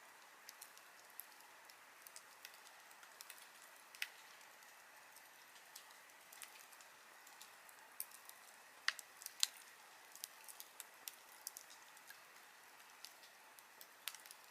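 Wood fire crackling: sparse, irregular pops and snaps over a faint steady hiss, with a couple of louder snaps a little past the middle.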